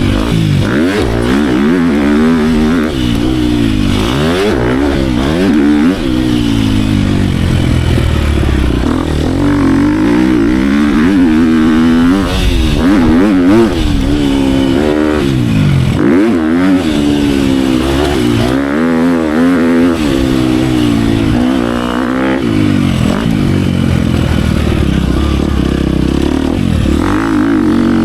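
Dirt bike engine being ridden hard. It revs up and drops off over and over as the throttle is worked and gears are shifted, with a quick rise and fall in pitch every second or two.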